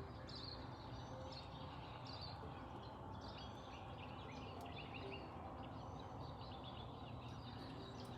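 Faint birdsong outdoors: small birds chirping in short, scattered calls over steady low background noise.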